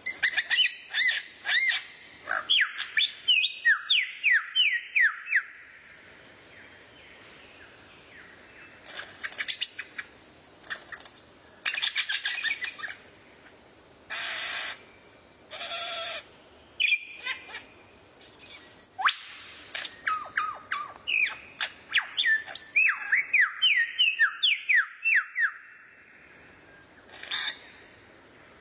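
Songbird song: rapid runs of short, downward-sliding whistled notes, broken in the middle by a few brief harsh rasping calls and one rising whistle before the notes start again.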